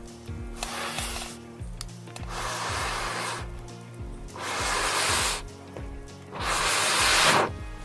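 Four long puffs of air blown through a fire-blowing pipe into a campfire, each lasting about a second, coming roughly every two seconds and getting louder each time.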